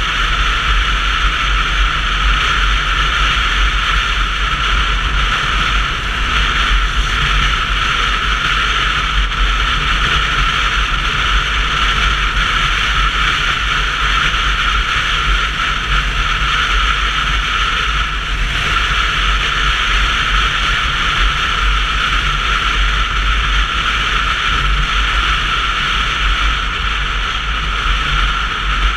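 Steady wind and road noise on a GoPro's microphone while riding a Sinnis Terrain 125cc motorcycle: an even rushing hiss over a deep rumble, with no engine note standing out.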